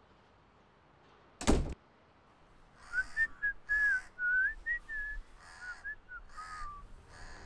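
A wooden door shuts with one loud thud. About a second and a half later someone whistles a short, breathy tune of gliding notes.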